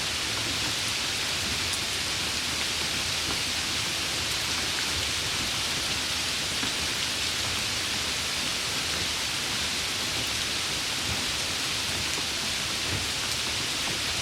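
Steady hiss of rain falling, with an occasional faint drop tick.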